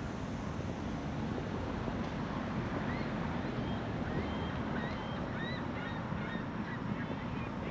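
Steady wind rumbling on the microphone, with many short, high bird chirps starting about three seconds in.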